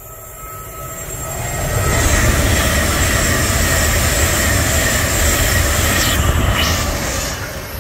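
A train passing at speed: the rumble builds over the first two seconds, stays loud for several seconds, then begins to fade near the end.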